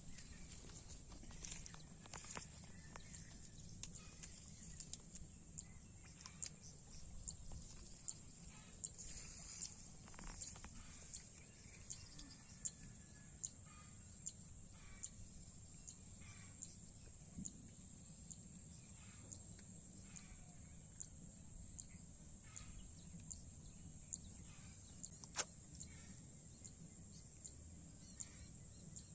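Outdoor rural ambience: a steady high-pitched whine under scattered faint clicks and ticks. The whine and the overall level jump up suddenly about 25 seconds in.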